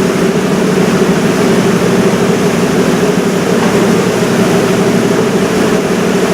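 River cruise boat's engine running steadily, a constant low hum over a wash of noise.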